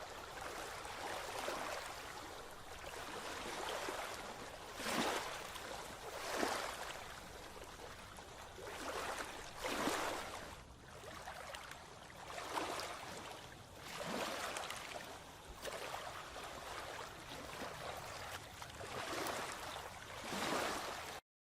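Moving water, with small waves lapping and splashing in irregular swells over a steady rush.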